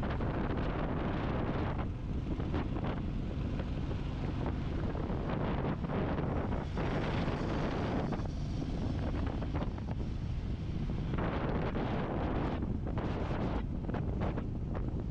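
Heavy wind buffeting on a motorcycle rider's camera microphone at riding speed, surging and easing unevenly throughout.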